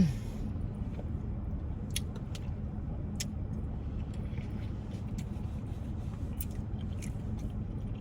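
Close-up chewing, with sharp wet mouth clicks every second or so, over a steady low rumble.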